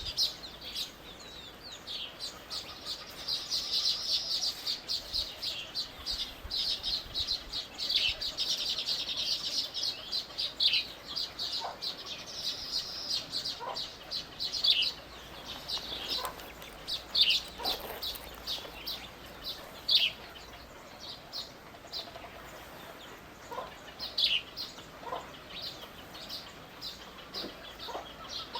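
Small birds chirping in fast, high-pitched trains for about the first half, thinning out to scattered single chirps in the second half.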